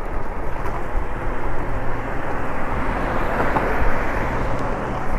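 Wind rushing over the microphone with road noise while riding an electric bike, a steady rushing sound that swells slightly about halfway through.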